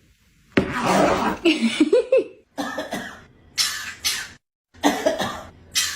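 A run of harsh, loud coughs, about five in all. The first and longest comes about half a second in, and the rest follow at roughly one-second intervals.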